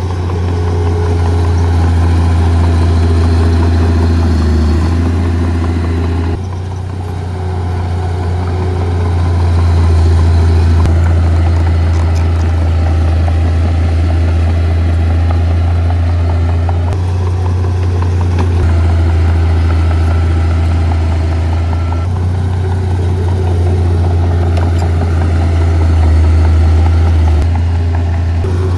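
Heavy diesel engine of earthmoving machinery, a bulldozer or dump truck, running with a loud low drone. Its tone and level shift every few seconds.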